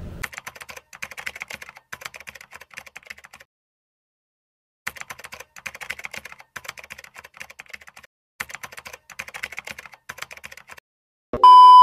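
Keyboard-typing sound effect: rapid clicking keystrokes in three runs with short silent pauses between them. Near the end a loud, steady electronic beep cuts in suddenly.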